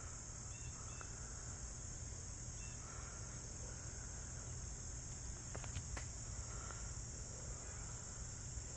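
Steady, high-pitched chorus of crickets or similar insects, an unbroken trill that holds level throughout, with a couple of faint clicks about six seconds in.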